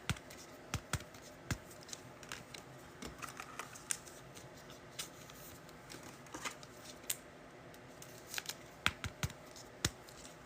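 Trading cards being handled on a table: scattered, irregular light clicks and taps, a dozen or more over the stretch.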